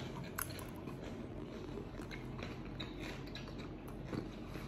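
A person quietly chewing a mouthful of pan-fried potato slices, with scattered small mouth clicks.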